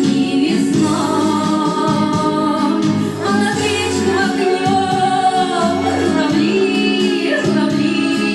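A song sung by female voices over instrumental accompaniment, with long held notes and steady bass notes.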